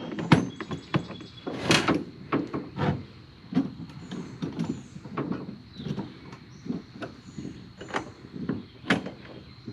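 Irregular knocks, clunks and scrapes of gear being handled, about one or two a second.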